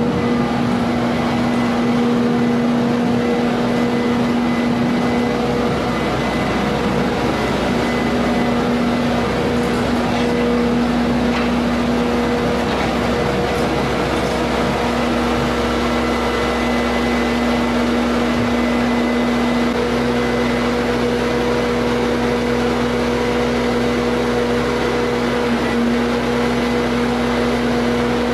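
Farm machinery running steadily: an engine or motor held at a constant speed, giving a steady hum with a fixed pitch.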